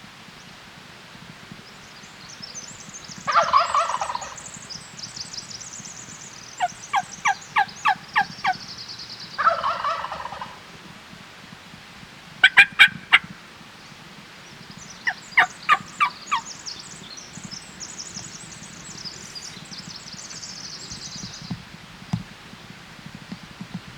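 Wild turkey gobbler gobbling twice, a few seconds apart, with runs of short, evenly spaced turkey yelps and sharp cutts between and after the gobbles.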